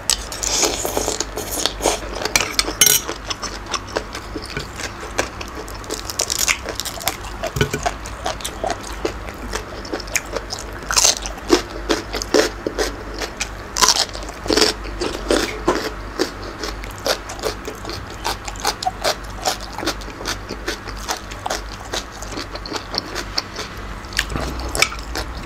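Close-miked chewing and crunching of mouthfuls of spicy Thai seafood salad with squid and crisp shredded vegetables: many quick, irregular crunches and wet mouth sounds.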